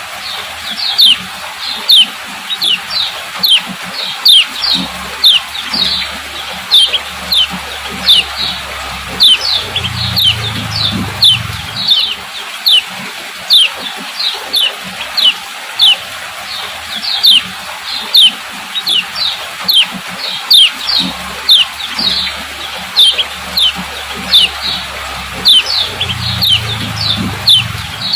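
Female kecial kuning calling 'ciak ciak': short, high, downward-slurred chirps, about two a second, repeating steadily.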